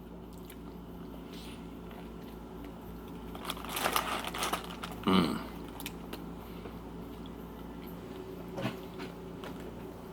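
Biting into and chewing a bacon sandwich, with the loudest stretch of mouth and crunching noise from about three and a half to five seconds in. A short hum of the voice follows at about five seconds, and there is a small click near the end.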